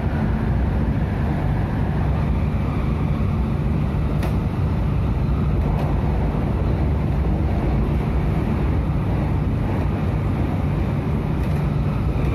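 Steady low rumble of an MTR Tung Chung line train running along the track, heard from inside the carriage, with a brief click about four seconds in.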